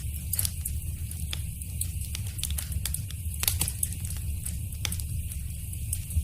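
Wood fire crackling in a fireplace: irregular sharp pops and snaps, a few louder ones near the middle, over a steady low rumble of the flames.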